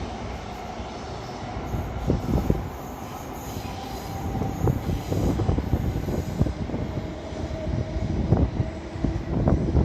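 A train moving along the track at a station: wheels knocking irregularly over rail joints and points, with a steady squealing tone from the wheels on the rails.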